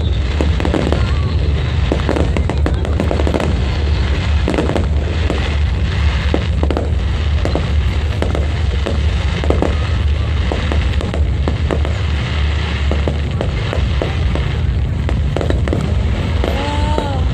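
Fireworks display: a dense, irregular run of bangs and crackles over a steady deep rumble that eases about three-quarters of the way through.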